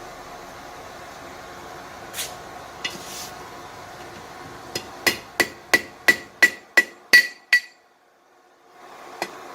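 Blacksmith's hammer striking hot steel on an anvil: a run of about eight blows, roughly three a second, each with a bright ring, starting about halfway through after a steady background hum. One or two lighter taps follow near the end.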